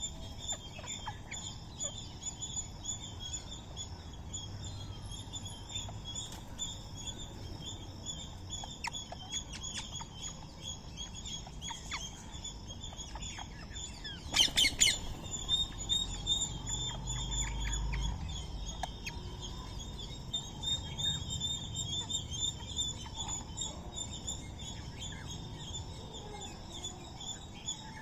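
Birds calling with short chirps throughout, over a steady, pulsing high-pitched background, and a loud burst of harsh squawks about halfway through.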